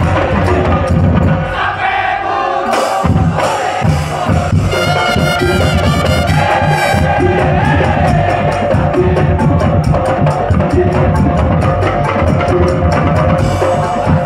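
Madurese daul music: a percussion band plays a steady fast beat with a pitched melody over it. The low drums drop out briefly about two seconds in, then come back.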